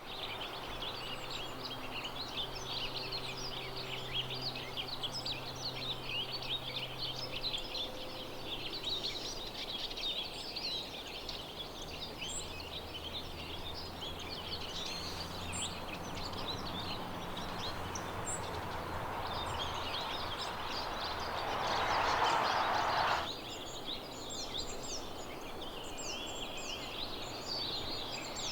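A mixed chorus of small songbirds twittering, with many short high chirps overlapping throughout. A low steady hum sounds under it for the first several seconds, and a brief rush of noise lasting about a second and a half, the loudest thing here, comes about 22 seconds in.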